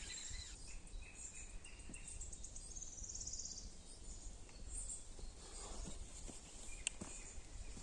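Faint outdoor ambience: a steady low rumble with a brief, evenly pulsed high chirring trill about three seconds in, and a few soft sharp clicks near the end.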